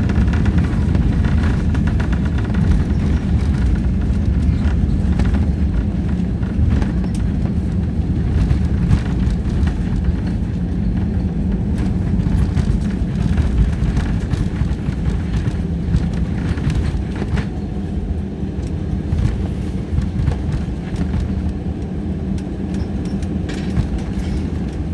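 Loud, steady low rumble in the cabin of an Airbus A320 rolling out on the runway after touchdown. Engine and wheel noise ease slightly in the last few seconds, with small cabin rattles throughout.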